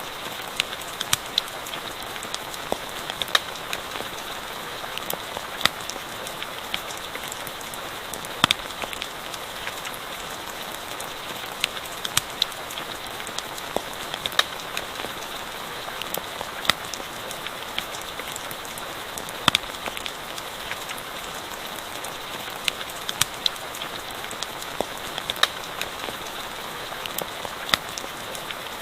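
Steady rain falling, with irregular sharp crackles and pops from a campfire scattered through.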